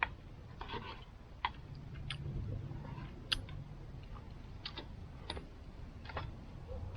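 Scattered light clicks and ticks, about a dozen at uneven intervals, over a low rumble.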